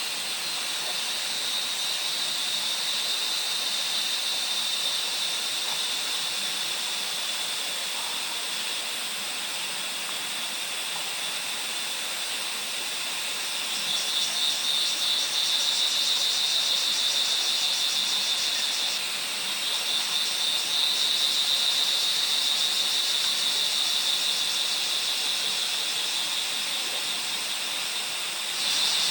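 A chorus of forest insects trilling steadily at a high pitch over an even hiss. It grows louder about halfway through, dips briefly a few seconds later, and swells again just before the end.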